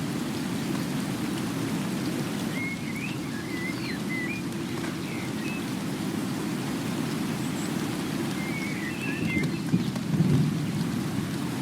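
Steady rain-like noise, with short chirping calls in two brief runs and a low swell of rumble about ten seconds in.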